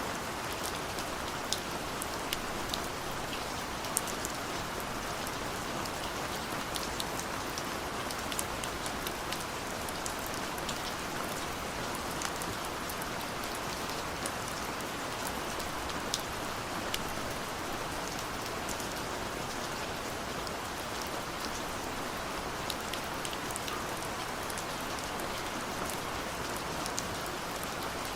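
Steady rainfall, an even hiss with many individual drops ticking sharply on a surface.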